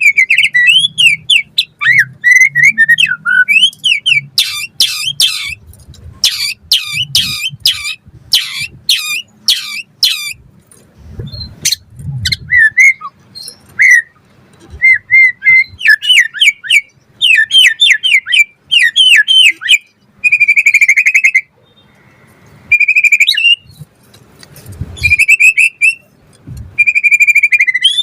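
White-rumped shama (murai batu) singing a fast, varied song of rising and falling whistled phrases. A few seconds in, it breaks into runs of rapid, sharp high notes. Near the end it gives several longer held whistles.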